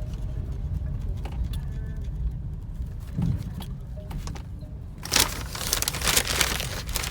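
Steady low rumble of a car idling, heard from inside the cabin, with a few small clicks. About five seconds in, loud crinkling and rustling starts as the takeout bag is handled.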